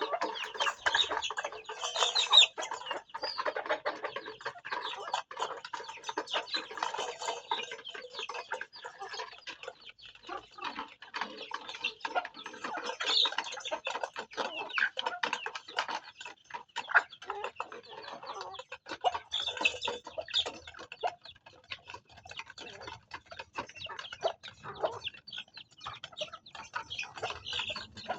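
A flock of farm chickens clucking, with many quick short clicks and brief high calls throughout.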